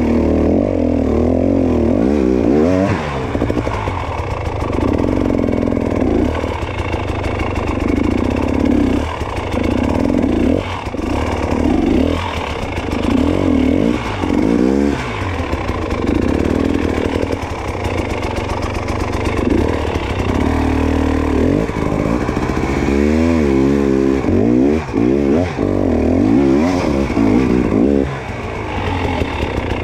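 Dirt bike engine revving up and down over and over as the throttle is worked in short bursts, typical of riding a rough, technical hard-enduro trail.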